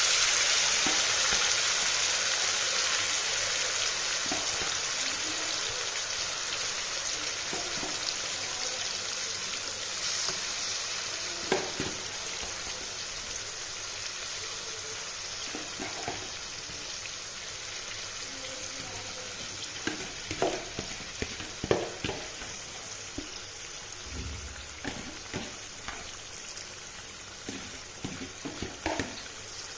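Marinated chicken pieces, just put into hot oil, frying in an aluminium kadai: a steady sizzle that slowly dies down. Knocks and scrapes of a perforated metal spatula stirring against the pan, more often in the second half.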